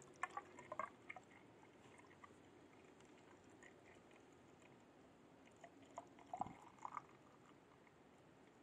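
Faint glugging and dripping of coolant poured through a funnel into a disconnected heater hose, in short clusters of small clicks near the start and again about six seconds in, with quiet background between.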